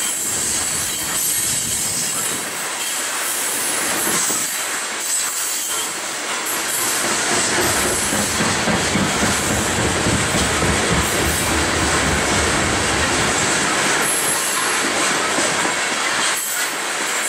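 Coal train hopper cars rolling past on the rails: a steady noise of steel wheels on rail, with a thin high-pitched wheel squeal running over it.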